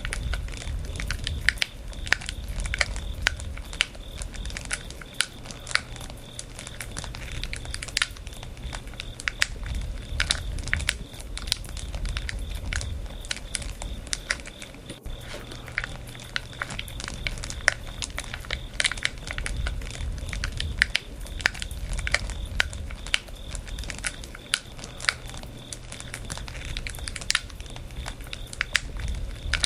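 Firewood burning in a campfire, crackling with many irregular sharp pops over a low steady rumble of the flames.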